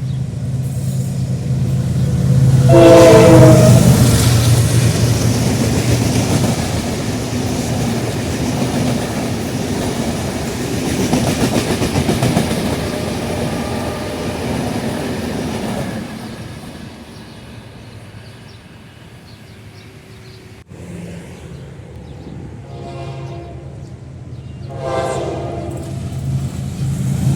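General Electric diesel locomotive sounding its horn, a chord of several tones, as its train runs past with a steady engine rumble and wheel noise on the rails. The rumble fades away about halfway through, and shorter horn blasts follow near the end.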